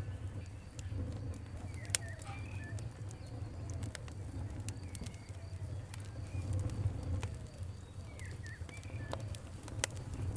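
Wood fire crackling, with sharp pops scattered irregularly over a steady low rumble. Short bird chirps sound faintly in the background.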